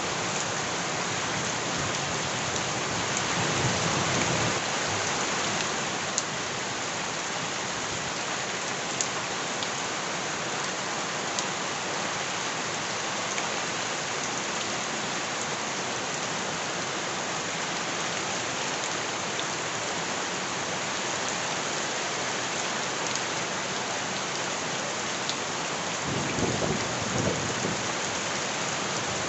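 Steady rain falling, with scattered sharp taps of drops striking a hard surface. It swells louder twice, with a low rumble, about four seconds in and near the end.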